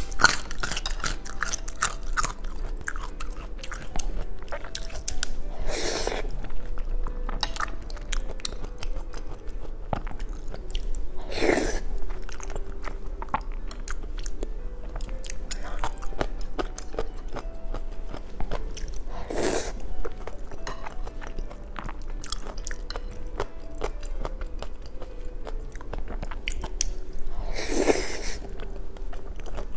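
Close-miked chewing and biting of brain in a mukbang eating show: continuous wet clicks and smacks of the mouth working the food, with a brief louder rushing sound four times, about every eight seconds.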